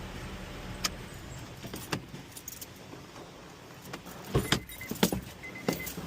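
Scattered light clicks and knocks, with a cluster of louder sharp clanks about four to five seconds in.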